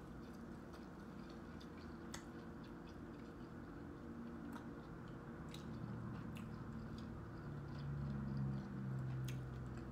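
Close-up chewing and wet mouth sounds of someone eating a seafood boil, with scattered faint clicks as fingers handle the food. A low hum grows louder over the last few seconds.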